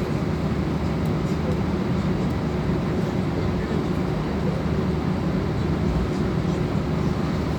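Airbus A320 jet engine and airframe noise: a steady drone with an even low hum.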